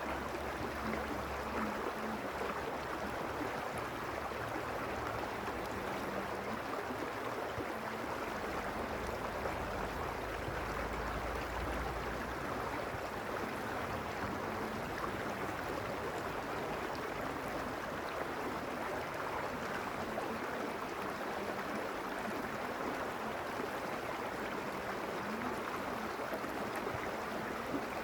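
Mountain stream rushing steadily over stones, an even rush of water. A low rumble rises briefly beneath it around ten seconds in.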